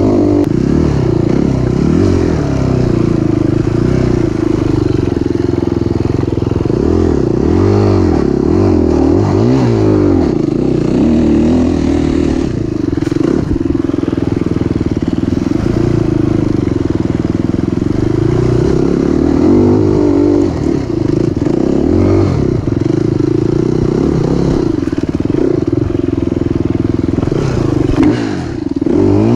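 Enduro motorcycle engine heard close up from on the bike, revving up and down as the rider works the throttle along a rough woodland trail. Near the end the revs drop briefly and then pick up again.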